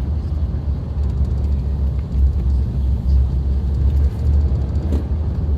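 Suzuki Jimny driving on a gravel forest road: a steady low rumble of engine and tyres, with small scattered clicks and one sharper knock about five seconds in.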